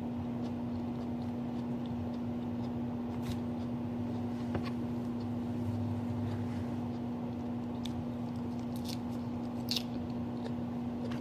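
A person chewing salad close to the microphone: scattered soft crunches and wet mouth clicks, a few sharper ones along the way, over a steady low hum.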